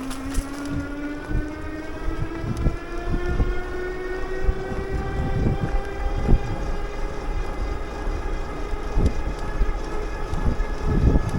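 A bike motor whining, its pitch rising slowly and steadily as the bike gains speed, over wind rumble and bumps on the microphone.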